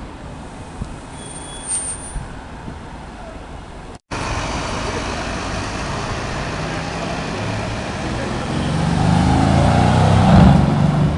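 City street traffic noise, then a Mercedes C-Class sedan's engine growing louder as the car comes up and drives past, peaking about ten seconds in before fading.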